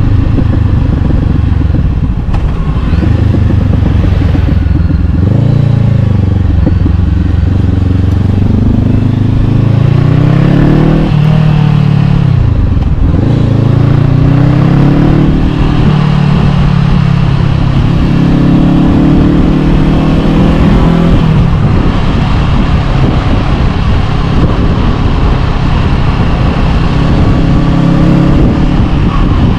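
Honda CB500X parallel-twin engine running through an Arrow Pro-Race aftermarket exhaust while riding, its pitch climbing and dropping several times with throttle and gear changes, with sharp drops about 11, 13 and 21 seconds in.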